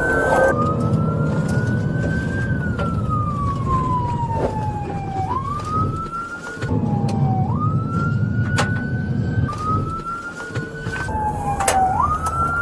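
Police car siren wailing, its pitch rising and falling slowly every few seconds, over the rumble of the patrol car's engine and road noise.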